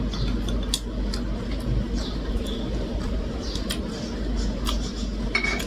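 Eating sounds: a sausage being tried, with scattered sharp clicks of utensils against a dish over a steady low hum.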